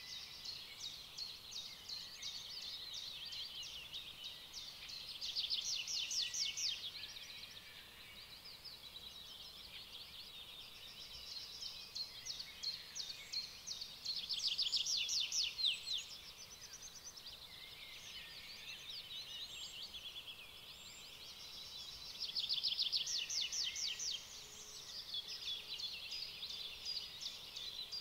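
Birds singing, a chorus of rapid high trills that swells louder three times: a few seconds in, around the middle and past two-thirds of the way.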